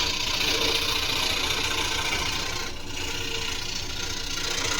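Scroll saw running with its blade cutting through wood: a steady rasping buzz over the motor's hum, dipping briefly a little past halfway.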